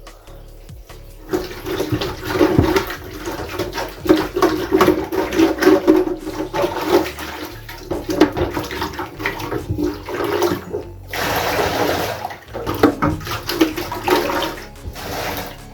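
Water running from a kitchen tap and splashing into a sink, starting about a second in, with a short break near two-thirds of the way through.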